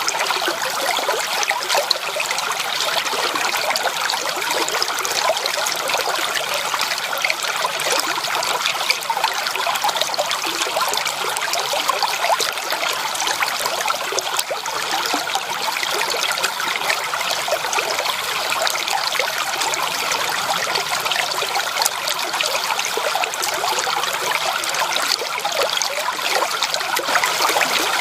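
Stream water flowing and trickling steadily, an even rushing hiss without pauses or changes.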